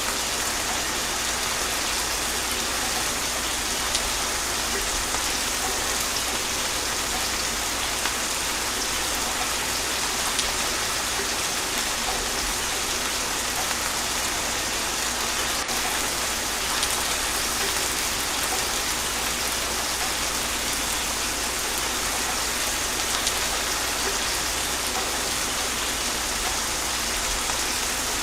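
Steady gentle rain falling and pattering on surfaces, an even hiss with no thunder.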